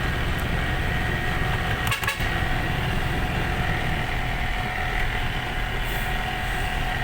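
Truck engine running steadily while driving, with a brief clatter about two seconds in.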